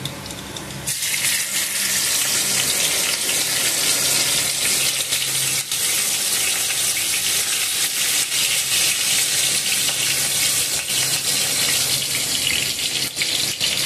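Chopped green chillies hit hot oil with cumin seeds in a kadhai and sizzle. The sizzle starts suddenly about a second in and carries on steadily, with a few sharp crackles.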